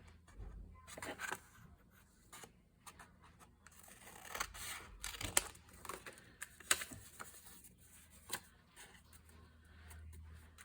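Scissors cutting paper in short irregular snips, with paper rustling as it is handled, and two sharp snips a little past the middle.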